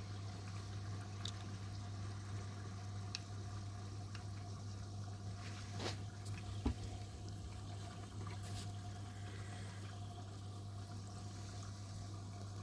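Miele washing machine taking in water for the first rinse after the spin: a steady flow of incoming water over a low hum, with a couple of short clicks about six seconds in.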